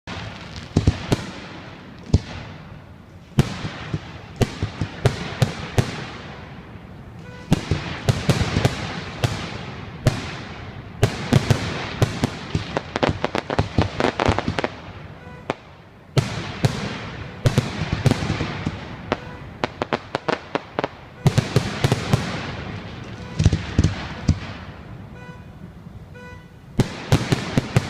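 Aerial fireworks display: volleys of sharp, loud bangs with crackling, coming in waves of several seconds each with short lulls between.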